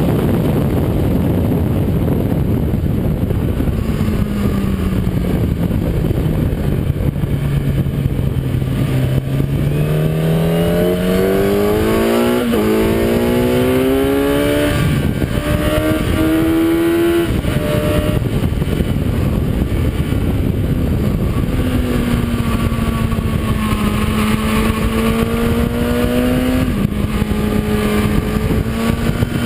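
Kawasaki ZX-10R inline-four engine heard onboard at speed under heavy wind rush. Its pitch sinks for several seconds as the bike slows, then climbs hard with quick drops at each upshift, three of them close together. It then holds a steady high-speed note, with one more shift near the end.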